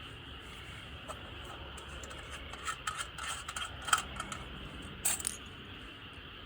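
A scattering of short, sharp clicks and light rattles, loudest at about four seconds and again just after five, over a steady faint hiss.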